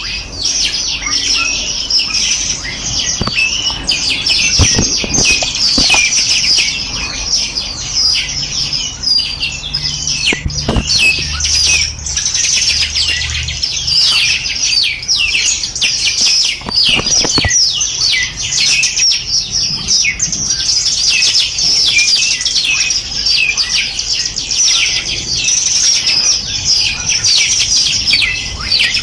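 Dense chorus of many small songbirds chirping and trilling at once, quick high notes overlapping without pause. A few dull thumps sound through it, near five, eleven and seventeen seconds in.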